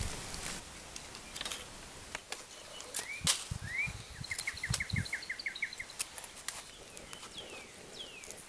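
A wild bird calling: two quick rising notes, then a fast run of about ten short, even notes, and later two falling notes. Scattered sharp clicks and pops from a small campfire crackling run through it.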